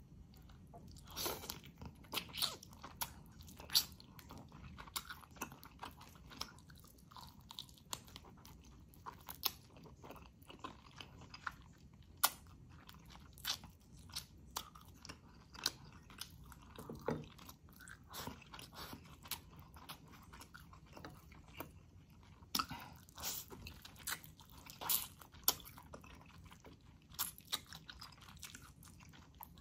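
Close-miked eating: a person chewing chicken in coconut-milk sauce eaten by hand, with many short wet mouth clicks and lip smacks.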